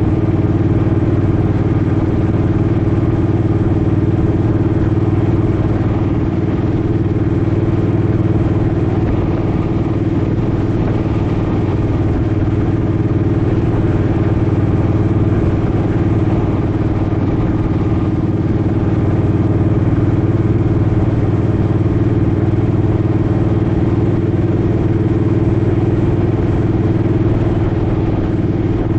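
Suzuki Boulevard M50's V-twin engine running at a steady, unchanging pitch, the bike cruising at constant speed.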